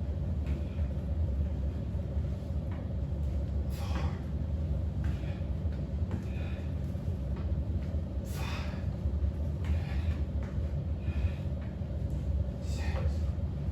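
A steady low rumble, with a short hissing rush about every four seconds.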